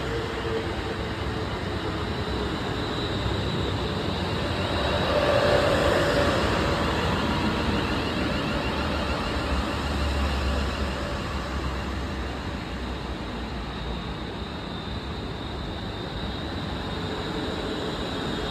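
Class 730 Aventra electric multiple unit running as it departs: a steady train noise that is loudest about six seconds in and then slowly eases away, with a faint high steady whine.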